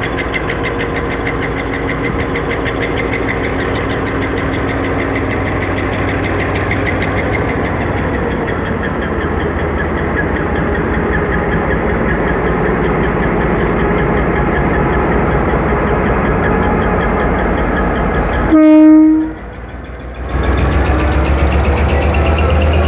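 EMD GT22 diesel-electric locomotive's two-stroke diesel engine running under power as the train pulls away. A short horn blast comes about 19 seconds in, and after a brief dip the engine comes back deeper and louder.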